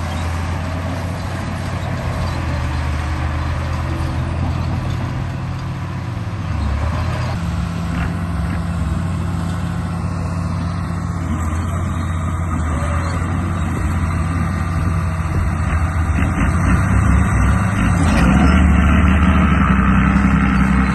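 Remote-control bulldozer running: a steady low engine-like drone that shifts pitch a few times and grows louder near the end.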